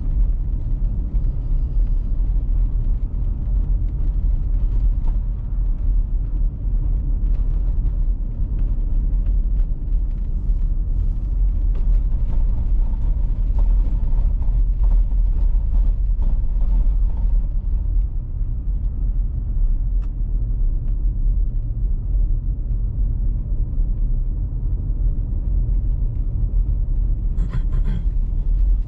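Car driving, with a steady low road rumble throughout. Near the end there is a brief high-pitched sound.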